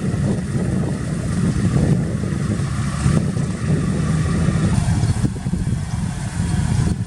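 Heavy earthmoving machinery's diesel engine running steadily under work, with most of its sound deep and low.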